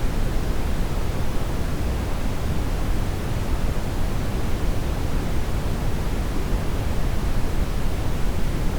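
Steady brown noise: an even, unbroken rushing hiss, heaviest in the low end and thinning toward the highs.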